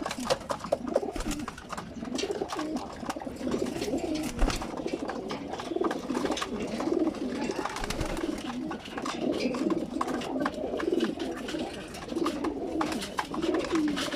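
A loft full of racing pigeons cooing continuously, many birds overlapping, with scattered small clicks and scuffs from their movement.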